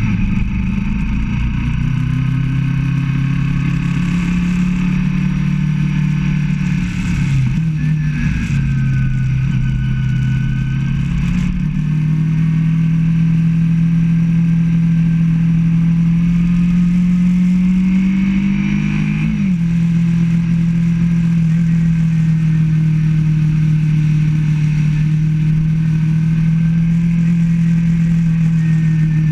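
Motorcycle engine running under way, its pitch shifting a few times early on, then climbing slowly for several seconds and dropping sharply about two-thirds of the way in, as at a gear change, before holding steady.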